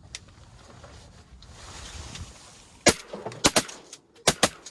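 Shotgun blasts: about five shots in quick succession, starting about three seconds in, the last two close together near the end.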